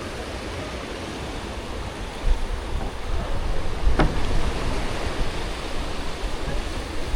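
Sea waves breaking and washing up on a beach, with wind rumbling on the microphone. The surf swells louder a couple of seconds in, and there is a single sharp click about four seconds in.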